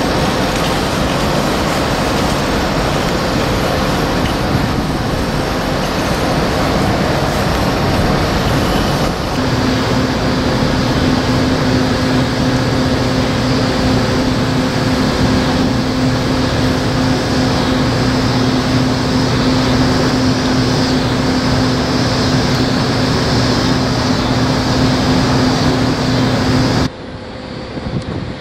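Metra bi-level commuter train cars close by: a loud, steady rumble. About nine seconds in, the sound shifts abruptly and a steady low hum joins the rumble, and near the end it drops away suddenly to a quieter background.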